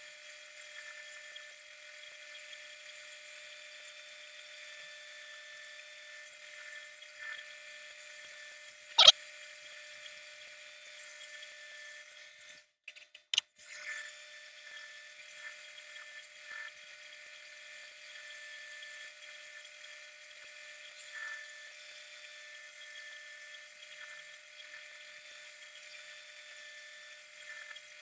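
A power tool's motor running with a steady high-pitched whine. A single sharp click comes about nine seconds in, and the sound drops out briefly around a third of the way through.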